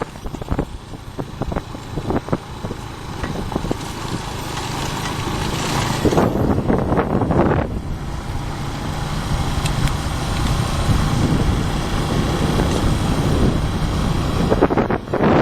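Motorbike engine running under steady road and wind noise, with gusts of wind buffeting the microphone about six seconds in and again near the end.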